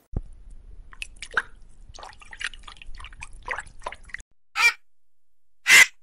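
Zebra grazing, tearing and chewing grass: a run of small irregular crunches and clicks over a low hum. This stops suddenly about four seconds in, and a vulture gives two short, harsh, raspy calls about a second apart, the loudest sounds here.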